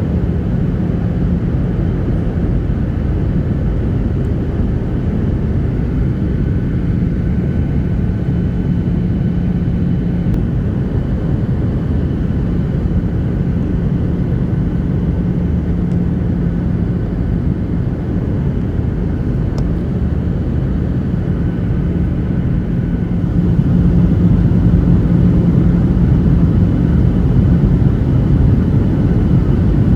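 Airliner cabin noise in flight: a steady rumble of engines and airflow with a constant low hum, becoming louder about three quarters of the way through.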